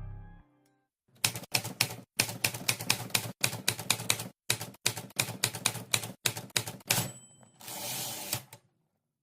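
The music's last note dies away, then comes rapid mechanical clicking like typing, several strokes a second in runs with short breaks. A brief hiss follows near the end.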